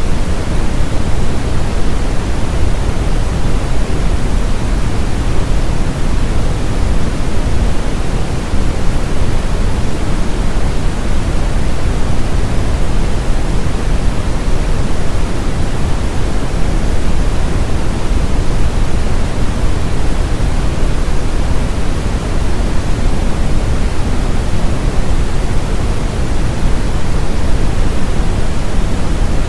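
Brown noise: a steady, deep hiss with most of its energy in the lows, unbroken and unchanging, used as a masking sound for tinnitus.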